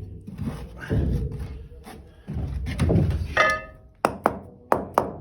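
Brick being shifted and scraped into its mortar bed, with a short clink, then a quick run of sharp mallet taps on the brick, about four a second, in the last second or so, to seat it level.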